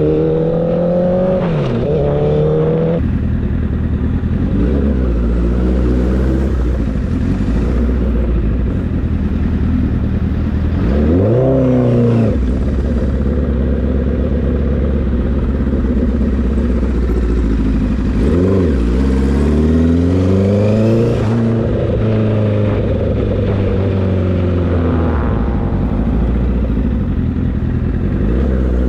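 Motorcycle engine running under way, rising in pitch as it accelerates and dropping suddenly at gear changes, about three seconds in and again around twenty-one seconds in. Brief sharp revs come around eleven and eighteen seconds in.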